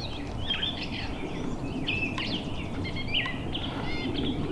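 Several songbirds singing and chirping at once in woodland, quick overlapping warbles and chirps, over a steady low background rush.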